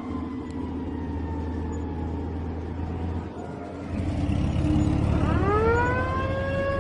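Low steady rumble of a small toy car running along the floor. About five seconds in, a tone slides up and then holds with overtones.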